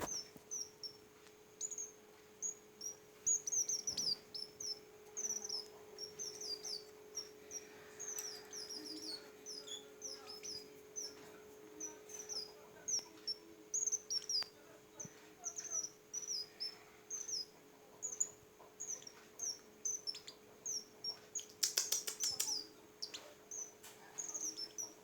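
A small songbird chirping repeatedly, a fast string of short high notes that slide downward. A steady low hum runs beneath, and a brief burst of rattling clicks comes about 22 seconds in.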